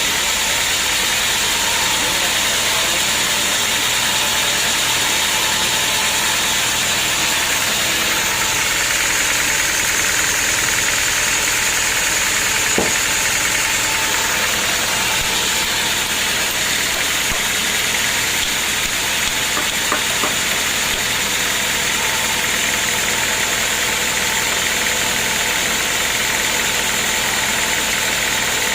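Homemade sawmill running steadily, its engine-driven saw cutting through a teak log, with a couple of faint brief knocks midway.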